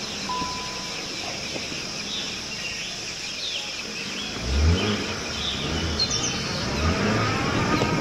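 Birds chirping and calling over a steady outdoor background hiss. A short steady beep sounds just after the start, and a low rumble swells and fades from about four and a half seconds to seven.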